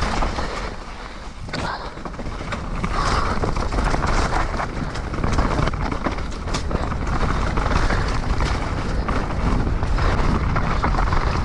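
Bike riding over a wet trail: a steady rumble of tyres and wind on the microphone, with scattered rattles and knocks from the bumps.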